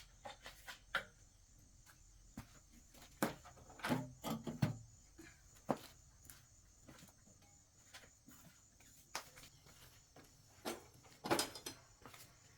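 Scattered light knocks and clicks, irregular and sparse, a few of them sharper and louder, over a faint steady high hiss.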